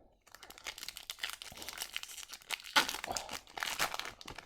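Plastic wrapper of a 2022-23 Upper Deck MVP hockey card pack crinkling and tearing as it is opened by hand, loudest about three seconds in.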